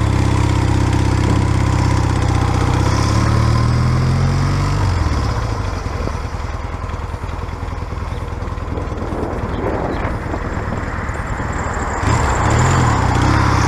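1978 Yamaha XS650 parallel-twin motorcycle engine pulling away, its pitch rising for the first few seconds and then dropping. It runs quieter for several seconds, then grows louder again near the end.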